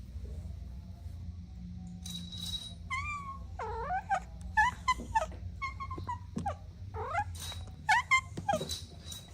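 Kittens mewing: a rapid string of short, high-pitched squeaky mews that starts about three seconds in, over a low steady rumble.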